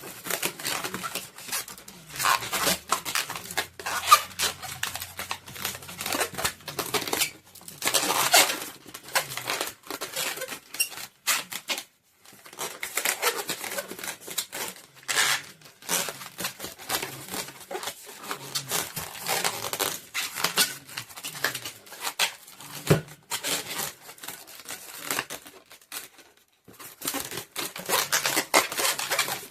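Latex twisting balloons being handled and twisted, a dense crackling, rubbing run of sounds with two short pauses.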